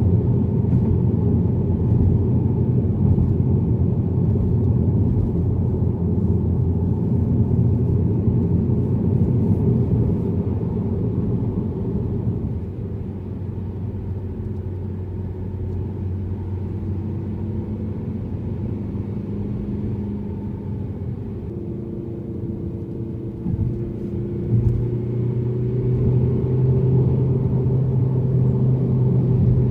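Mazda3 driving, its engine and road noise a steady low rumble. About halfway through it eases and quietens, then the engine note slowly rises and grows louder as the car picks up speed near the end.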